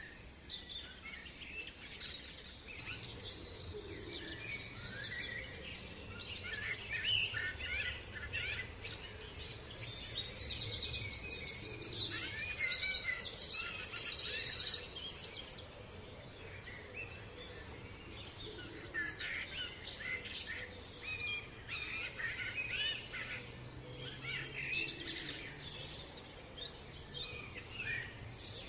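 Several songbirds singing and chirping, with a run of rapid high trills about ten to fifteen seconds in, over a faint low steady hum.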